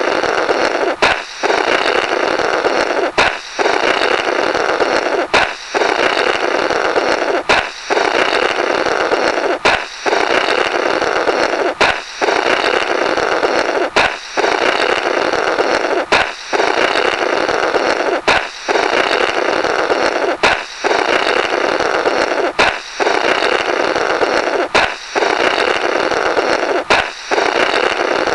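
Looped comic 'blorrrt' balloon sound effect: a balloon pops, then someone blows a long rasping raspberry through the burst rubber. It repeats about every two seconds, around thirteen times, with a short click and gap marking each restart.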